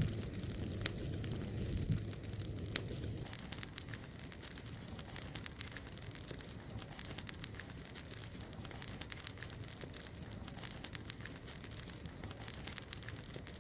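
Bonfire crackling, with a steady scatter of small pops and snaps and a couple of sharper cracks in the first few seconds. A low rumble under the fire fades out about three seconds in.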